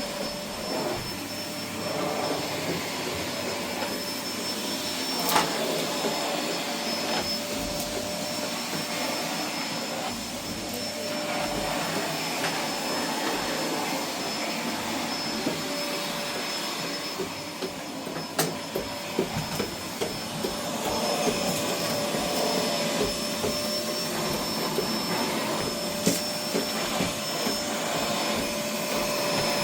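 A motor-driven machine running steadily: a constant whirring noise with a steady whine over it and a few sharp clicks.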